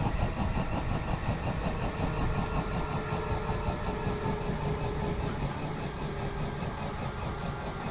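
Piston helicopter's main rotor and drivetrain coasting down after engine shutdown, before the rotor brake is applied: a steady, rhythmic blade beat over a low hum, slowly fading.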